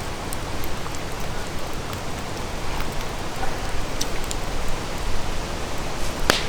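Steady, even outdoor hiss with a few faint ticks and one sharp click near the end.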